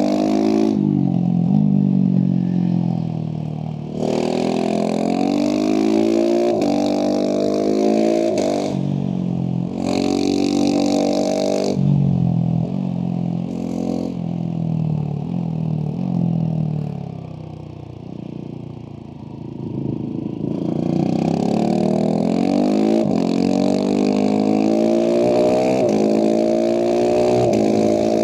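Husqvarna 701 Supermoto's single-cylinder engine through a Leovince slip-on exhaust, accelerating hard with its pitch climbing and dropping again and again as the gears change. It eases off to a quieter stretch about two-thirds of the way through, then pulls through several rising upshifts again.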